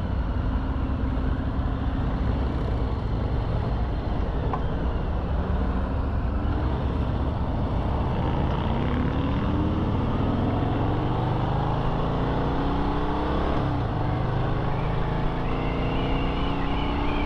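Harley-Davidson Milwaukee-Eight 107 V-twin under way, its pitch climbing as it accelerates about eight seconds in and again near the end, over steady rushing noise.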